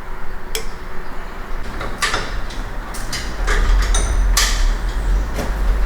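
A series of sharp knocks and clatters, about six spread over a few seconds, with a low rumble coming in about three seconds in.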